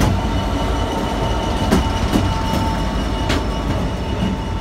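Class 66 diesel locomotive 66144, with its two-stroke V12 engine, passing close by at the head of a container freight train. It makes a loud, steady running noise, with occasional sharp clicks from the wheels on the rails.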